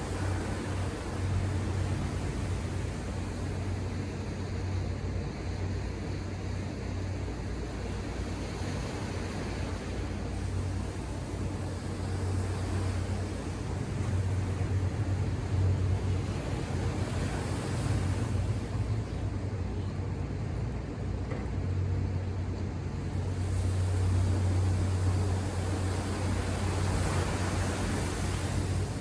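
Ocean surf: a steady rush of breaking waves with a low rumble underneath, swelling louder twice, about halfway and near the end.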